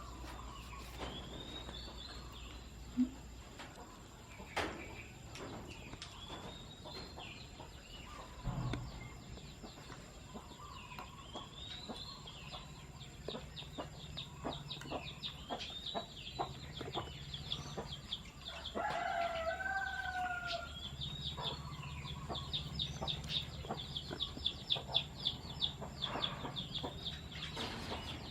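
High-pitched animal or bird calls: squeaky calls that rise and fall, turning into a fast, continuous run of short peeps in the second half, with a lower call about two-thirds of the way in.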